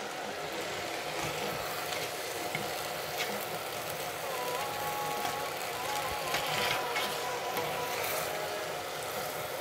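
Chicken drumsticks in curry paste sizzling in a steel pot while a spoon stirs them, with a few light scrapes and knocks of the spoon against the pot.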